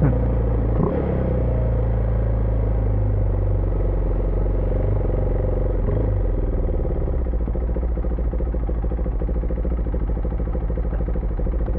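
Husqvarna Vitpilen 401's single-cylinder engine running steadily under way, at an even, low pitch that eases slightly about six seconds in.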